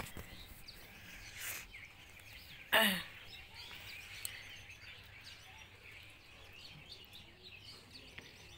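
Faint bird chirps and calls over a low outdoor background. About three seconds in, one short, loud call falls sharply in pitch.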